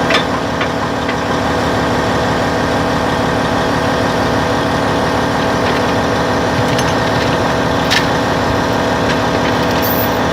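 Caterpillar D10N bulldozer's diesel engine running steadily at idle. A few sharp clicks come in the first second, and one more about eight seconds in.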